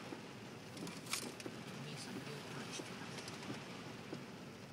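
Heavy tropical rain on a flooded road with slow traffic: a steady hiss of rain and tyre spray, with a sharp click about a second in.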